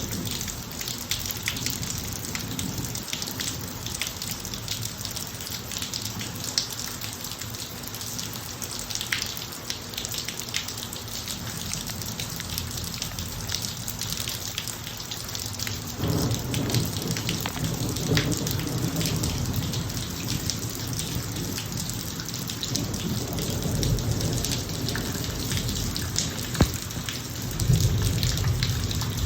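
Steady rain falling on a driveway, with many separate drops tapping close by. A low rumble of thunder comes in about halfway through and swells again near the end.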